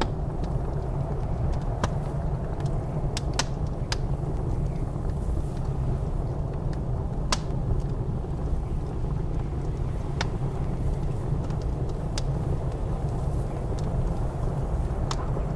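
Wood fire crackling in a fireplace, with sharp isolated pops every second or so, over the steady low rumble of blizzard wind.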